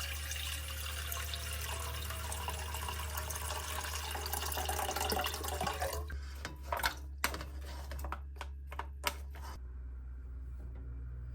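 Kitchen tap running water into a sink for about six seconds, then cut off, followed by a few short knocks and clinks.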